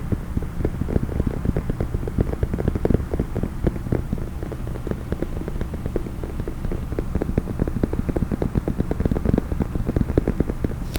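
Fast, irregular finger tapping on a hard case, many low, dull taps a second without a break.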